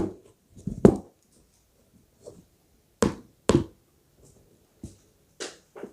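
A series of separate sharp knocks and taps, about seven in all and irregularly spaced, like objects being handled and set down on a hard surface. The loudest come right at the start and about three seconds in.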